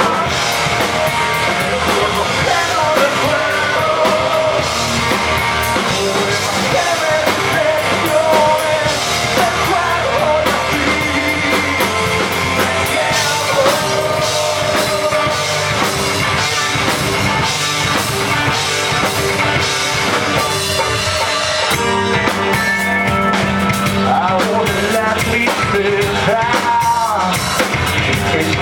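A rock band playing live: a singer over drum kit and amplified instruments, with the arrangement shifting to a heavier, more drum-driven section about three quarters of the way through.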